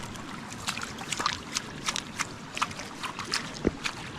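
Creek water running steadily, with an irregular patter of sharp water splashes and drips close by, and one louder knock a bit before the end.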